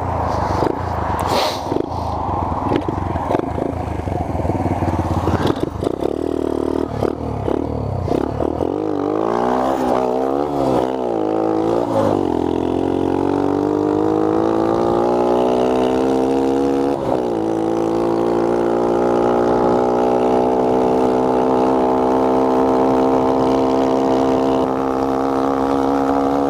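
A Honda Z50R minibike's small single-cylinder engine being ridden. For the first several seconds it runs roughly with clatter. Around ten seconds in it is revved up and down a few times, then it pulls away in a steady, slowly rising note as the bike gathers speed.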